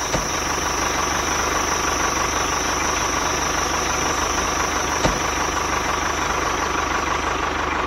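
Small electric motor of a miniature model running steadily, with a fast fine rattle and a high steady whine. A faint click comes at the start and another about five seconds in.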